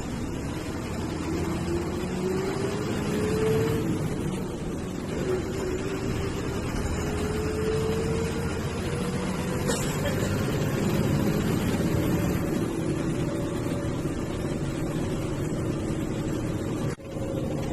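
Diesel engine of an MSRTC bus running under load. Its whine rises in pitch and drops back several times as it pulls through the gears, with a faint high turbo whistle rising near the middle.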